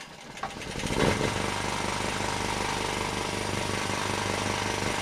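Generator starting up: its engine builds over the first second, catches, then runs at a steady speed.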